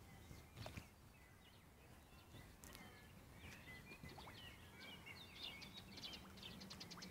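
Near silence with faint birdsong: small birds chirping, busiest in the second half.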